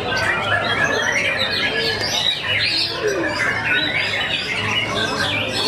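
White-rumped shamas singing at a songbird contest: a dense, unbroken stream of overlapping chirps, trills and whistles, with a few lower sliding notes mixed in.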